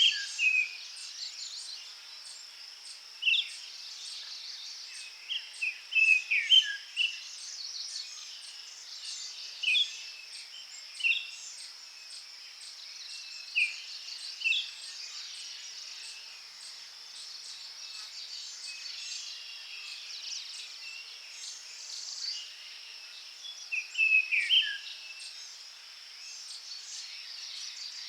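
Forest ambience: songbirds chirping in short phrases every few seconds over a steady, high insect buzz. The birdsong eases off for several seconds past the middle and picks up again near the end.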